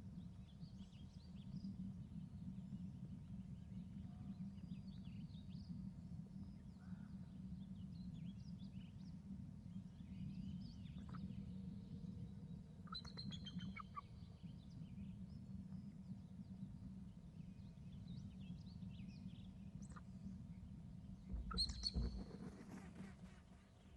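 Small birds chirping and calling over a steady low rumble, with a quick run of repeated sharp notes about halfway through and a louder, noisier burst near the end.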